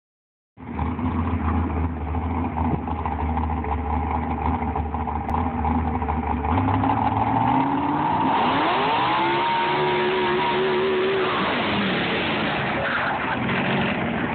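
Drag car engine running with a deep rumble, then revving hard about eight seconds in: the pitch climbs quickly, holds high for a couple of seconds, and falls back near the end.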